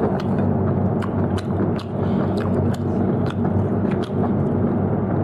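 A person chewing food with small wet mouth clicks, several a second and irregular, over a steady low hum.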